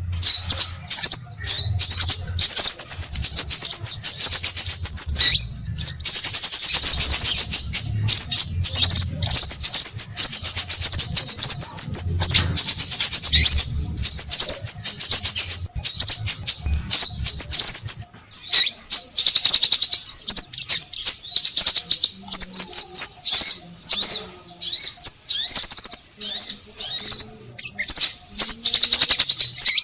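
Scarlet minivet (sepah raja) calling excitedly: a busy, almost unbroken stream of rapid high-pitched chirps in short bouts, a lure recording for trapping birds. A low hum underlies the calls and stops about eighteen seconds in.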